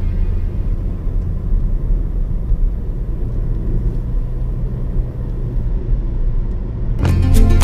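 Low, steady rumble of a vehicle travelling on the road. Music with plucked notes comes in near the end.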